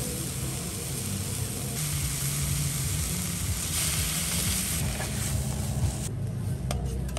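Tomato-onion masala with curry leaves sizzling in a frying pan on a portable gas stove while being stirred with a spatula. The sizzle cuts off about six seconds in as the pan is lifted off the heat, followed by a few light clicks, over a steady low rumble.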